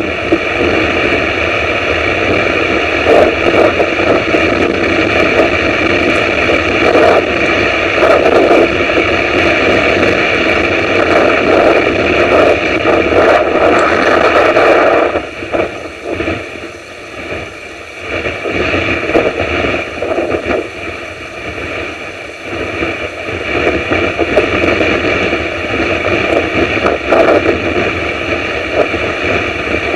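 Storm wind and rain on an outdoor camera microphone: a loud, gusting rush of noise that eases for several seconds about halfway through, then builds back up.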